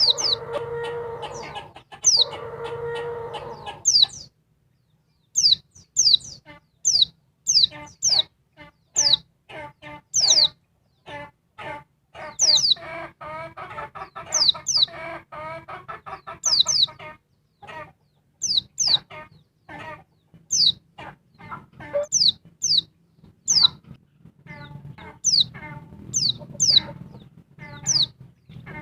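Female white-eye (pleci) calling restlessly: a stream of thin, high notes that slide downward, about two a second, over a fast chattering. In the first few seconds there are also two drawn-out lower calls.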